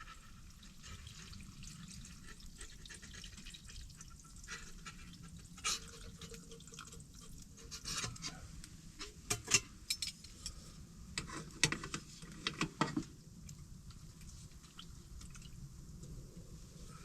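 Scattered light clicks and taps, busiest in the middle of the stretch, over a faint low steady background.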